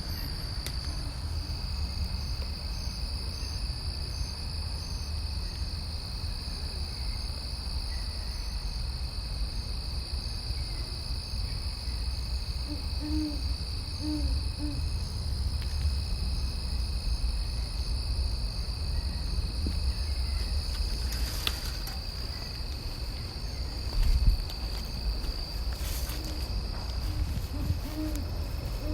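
Great horned owl hooting: soft low hoots in short series of about three, about halfway through and again near the end. Underneath runs a steady high-pitched whine and a low rumble, with a brief bump about three-quarters of the way through.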